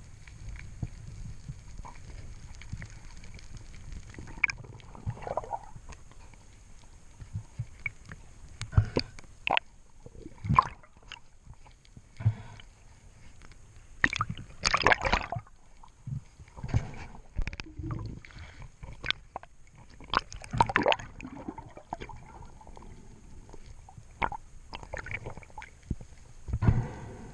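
Water sloshing and gurgling, with irregular splashes over a low steady rumble.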